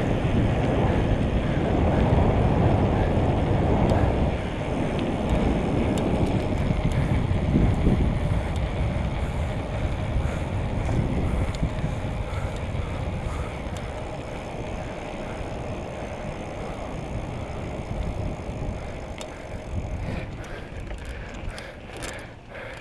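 Wind rushing over the microphone while riding a bicycle, a steady low rumble that is loudest in the first few seconds and eases off gradually, with a few faint clicks near the end.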